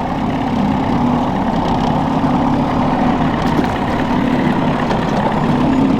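A boat's engine running steadily at low trolling speed, a constant drone that holds the same pitch.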